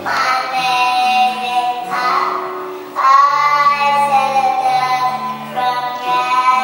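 A child singing a song over an instrumental accompaniment, with long held notes.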